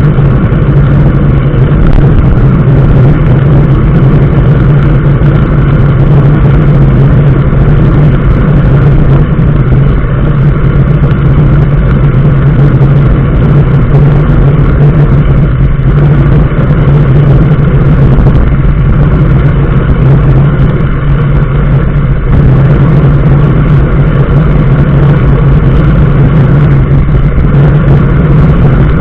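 Steady running noise of a moving road vehicle: a constant low engine hum with road and tyre noise over it, holding level with no clear changes.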